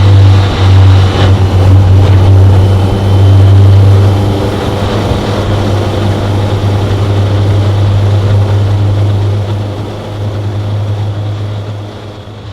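BMW K1100LT motorcycle riding along, its 1092 cc inline-four engine running steadily under a heavy low rumble; the sound gradually fades out over the last few seconds.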